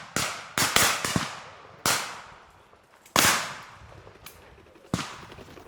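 Shotguns firing in a rapid, uneven volley of about seven or eight shots, some in quick doubles, others fainter and farther off, each trailing off in a long echo; the loudest comes about three seconds in.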